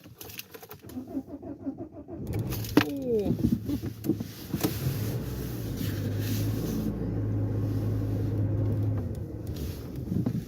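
A car: a few clicks, then the engine starts about two seconds in and runs with a steady low hum.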